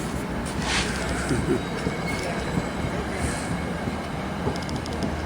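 New Jersey Transit commuter train pulling out of the station: a steady rumble of wheels on the rails, with a brief high wheel squeal about a second in and a few light clicks near the end.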